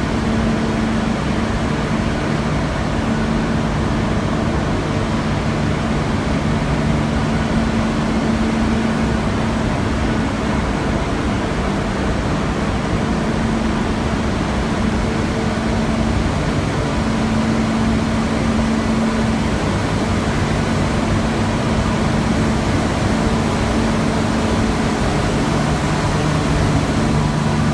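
Large industrial furnace plant running: a loud, steady rushing noise with a low hum that drops out and returns every few seconds.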